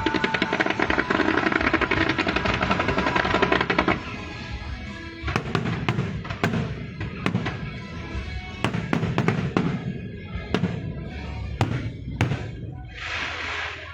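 Fireworks going off: a dense rapid crackling for about the first four seconds, then separate sharp bangs at irregular intervals.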